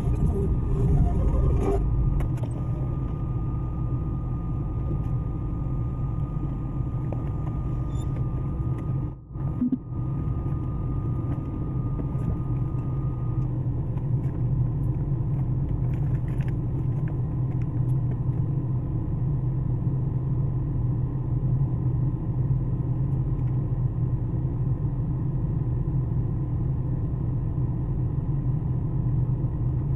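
Front-wheel-drive car's engine running with a steady low hum, heard from inside the cabin. A faint thin whine stops about thirteen seconds in, and the sound briefly drops out about nine seconds in.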